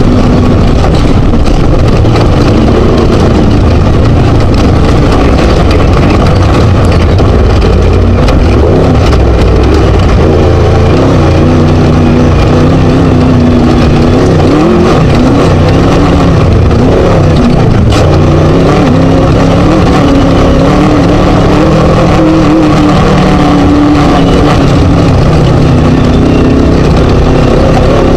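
Class 1 desert race buggy's Scat four-cylinder engine running hard, its pitch rising and falling with the throttle, over a dense wash of road and chassis noise heard from on board.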